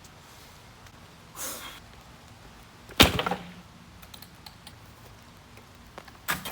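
A short whoosh, then one loud, sharp impact about three seconds in with a brief low ring after it, followed by faint clicks and another knock near the end.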